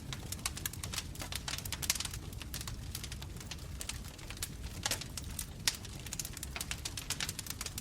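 Wood fire burning, with dense irregular crackles and pops over a steady low rumble of the flames.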